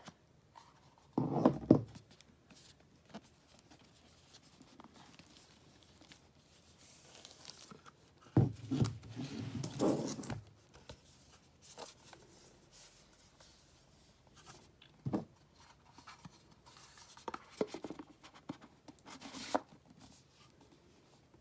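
Hands handling a Blu-ray set at a table: intermittent rustling, tearing and light knocks of plastic packaging in several short bursts.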